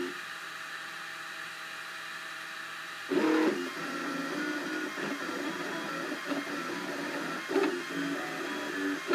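Cubify 3D printer's stepper motors whining in tones that jump from pitch to pitch as the print head moves. The sound is quieter and steadier for about the first three seconds, then grows louder, with quick shifts in pitch.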